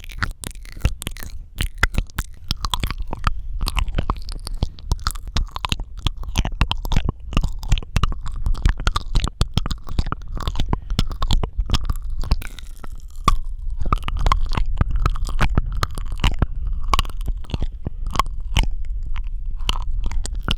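Close-miked ASMR mouth sounds: a dense, irregular run of tongue and lip clicks, smacks and pops.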